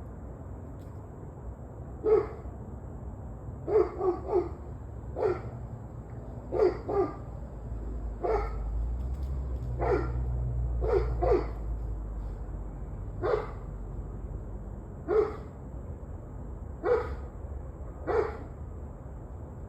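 A dog barking repeatedly: single barks every one to two seconds, some in quick pairs, starting about two seconds in. This is part of a spell of barking that has gone on for over an hour.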